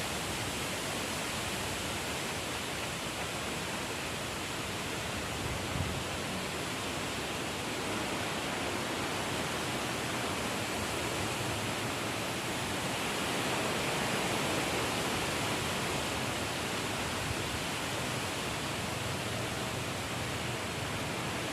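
Strong storm wind blowing steadily, a dense even rushing noise that swells a little about two-thirds of the way through.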